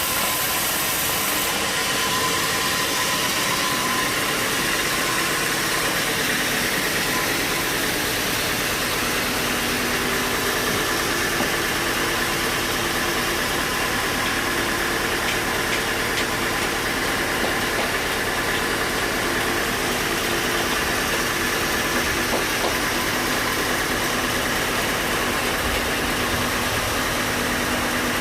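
Sawmill machinery running steadily: a constant mechanical drone with a faint high whine over it, with no break or change in pace.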